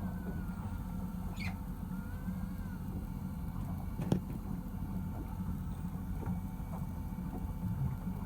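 A fishing boat's engine runs steadily with a low hum. There is a brief high squeak about a second and a half in and a single sharp knock about four seconds in.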